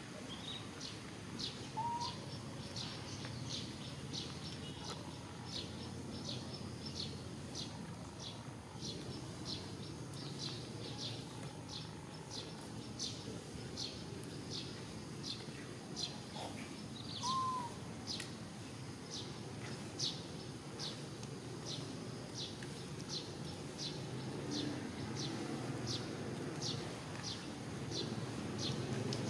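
A bird chirping over and over, a short high note repeated evenly about every half second, over steady low background noise. Two brief lower calls break in, about two seconds in and again past the middle.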